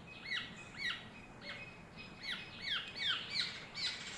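Young oriole's begging calls while being hand-fed: a steady series of short, high calls, each sliding sharply down in pitch, about two a second and coming quicker toward the end.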